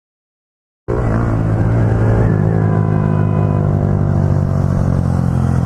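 A motor vehicle's engine running steadily, with a constant low note, cutting in suddenly after about a second of silence.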